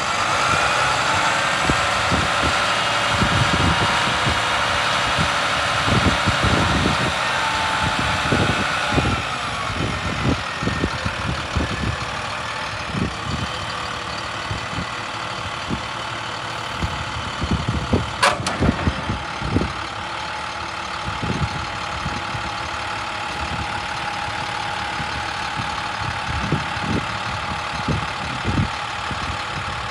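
Utility truck's MaxxForce DT diesel engine running, with a high steady whine that drops in pitch and fades about nine seconds in. Irregular low knocks run throughout, and a single sharp click comes just past halfway.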